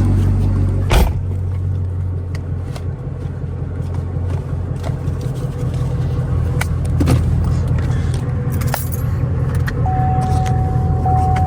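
Straight-piped 2017 Chevrolet Camaro SS's 6.2-litre V8 running steadily, with a sharp knock about a second in, a few light clicks and jingles, and a steady high tone that comes on near the end.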